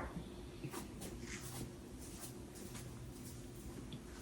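Quiet room tone with a faint steady hum and a few soft, brief ticks and rustles.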